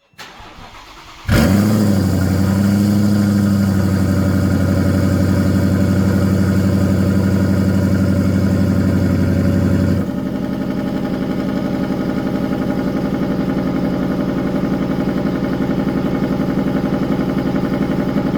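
Twin-turbocharged 2019 Mustang's V8 started for the first time through its new custom dual 3-inch exhaust: it cranks briefly, fires about a second in with a short rev flare, and settles into a steady idle. About ten seconds in the idle note changes and eases slightly.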